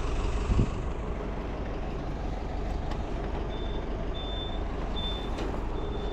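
Street traffic rumble with a short, high electronic beep repeating at an even pace, starting about halfway through, and a single thump near the start.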